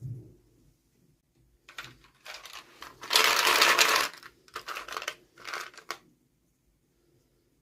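Toy packaging being handled and opened: rustling and crinkling in several short bursts, the loudest a dense rustle of about a second, about three seconds in.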